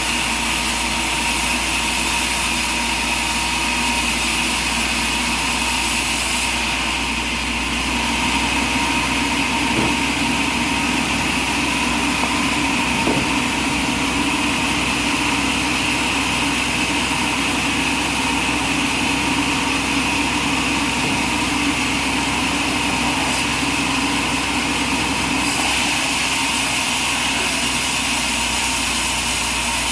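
Sawmill running steadily: an engine-driven mill with a constant mechanical drone, the hiss at the top easing off for most of the stretch and returning near the end.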